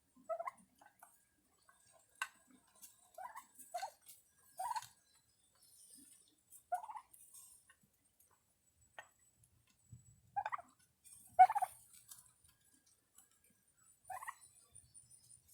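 Turkeys calling while they feed: a string of short, separate yelping calls, spaced irregularly, with the loudest near the end, and a few faint clicks in between.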